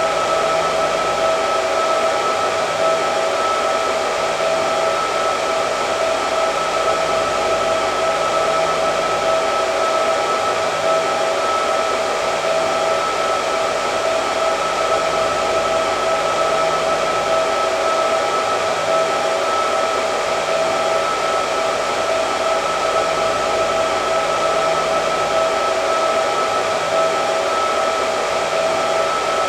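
Hair dryer running continuously: a steady rush of air with a constant motor whine, no change in speed.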